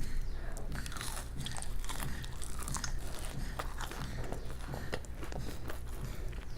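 Close-up crunchy biting and chewing of crisp food: many quick crackles and crunches in an irregular run, over a faint steady low hum.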